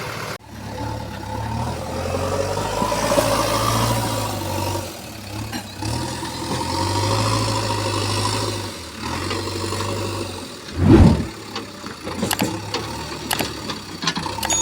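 Heavy machine's diesel engine running, its hum rising and falling in turns. There is a loud low thud about eleven seconds in, followed by a few sharp knocks.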